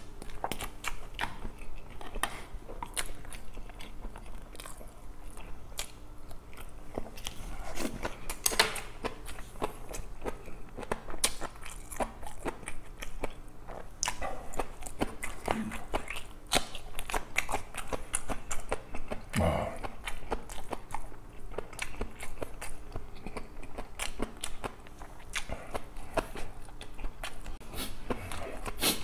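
Close-miked chewing: a person eating and chewing food, with a dense, irregular run of wet mouth clicks and smacks.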